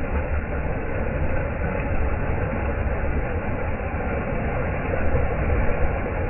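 Steady low rumble of surf washing on a beach, an even noise without distinct breaks.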